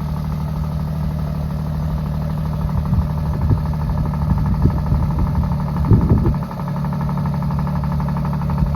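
Alfa Romeo Stelvio Quadrifoglio's twin-turbo V6 idling steadily shortly after a cold start, with a few irregular knocks and thumps in the middle.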